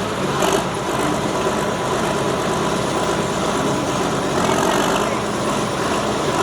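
Engine of a pulling vehicle running steadily and loudly, with no sharp revving.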